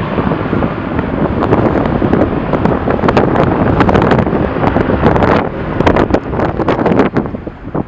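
Strong wind buffeting the camera microphone in loud, rumbling gusts with repeated sharp pops.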